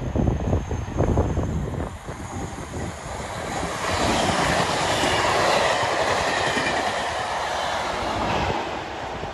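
Colas Class 37 diesel-hauled test train of measurement coaches passing at speed. The rush of wheels on rail swells about four seconds in, stays loud through the middle and begins to fade near the end.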